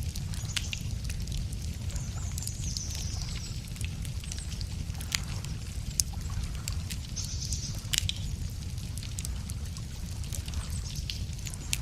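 Wood campfire crackling, with sharp pops scattered through, over a steady low rumble. Small birds sing in brief high snatches a few times.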